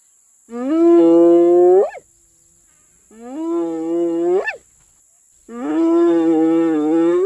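Spotted hyena giving three long whoops, each held on one pitch and rising sharply at the end, with short pauses between.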